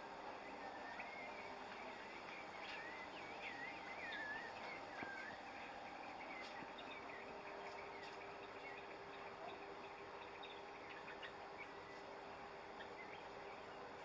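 Small birds chirping faintly in quick, wavy twitters for the first five seconds or so, then in scattered short chirps, over a steady low hum and hiss.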